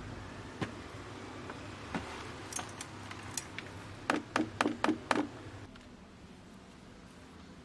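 Light knocks and clinks of small objects being handled, scattered at first, then a quick run of about six in the middle. A low steady hum underneath stops about two-thirds of the way through.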